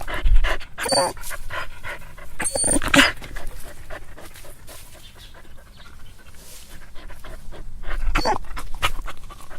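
A dog whining in short, irregular breathy bursts with brief high squeaky notes, loudest about a second in, around three seconds in, and again near the end.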